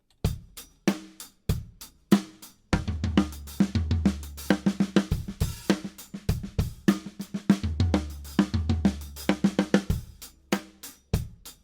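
Acoustic drum kit playing a right-left-left grouping-of-three fill pattern across snare, toms and hi-hat. A few spaced strokes open it, then from about two and a half seconds in comes a fast, continuous run of strokes with low drums ringing, thinning out near the end.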